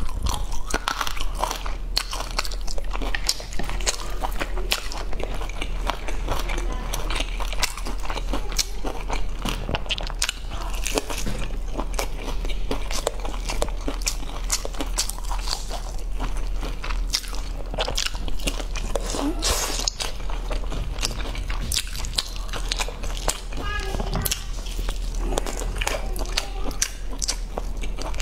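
Close-miked biting and chewing of sauce-coated fried meat on the bone, a steady run of crunches and mouth clicks.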